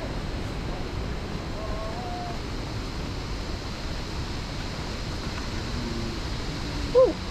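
Steady rushing noise of flowing water, with faint voices about two seconds in and a brief louder voice near the end.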